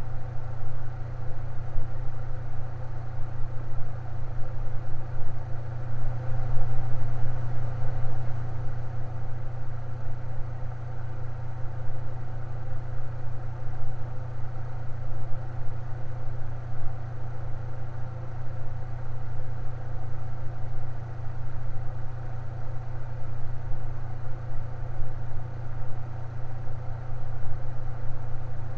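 Electric fan running steadily: a constant low motor hum with a whirring drone above it.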